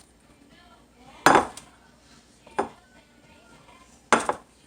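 Kitchen dishes and utensils clanking: three sharp knocks, the first about a second in and the loudest, the last near the end.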